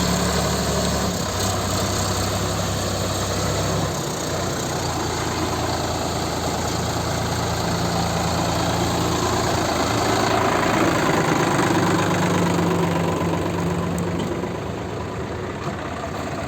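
Tractor engine running steadily, its engine speed shifting in steps a few times, most clearly about a second in and again about four seconds in.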